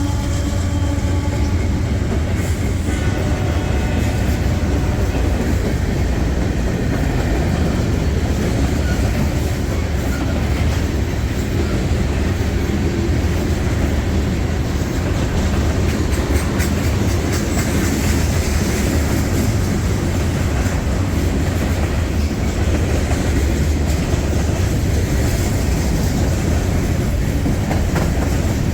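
Freight train rolling past at close range: a steady rumble with the clickety-clack of railcar wheels over rail joints. A locomotive horn's chord trails off in the first second or two.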